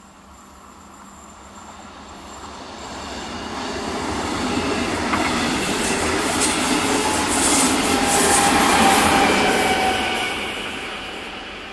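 Red double-deck regional train passing at speed: its running noise builds up, is loudest for a few seconds as the coaches go by, then fades away. A thin wheel squeal rings through the loudest part.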